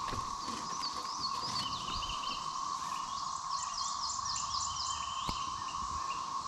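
Birds singing and calling repeatedly over a steady high-pitched drone that doesn't change.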